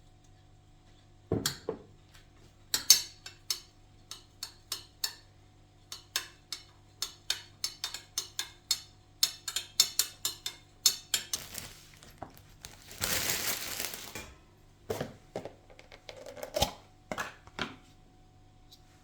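Kitchenware being handled: a run of light clinks and knocks of dishes and utensils, with a short rushing noise lasting about a second, a little past the middle.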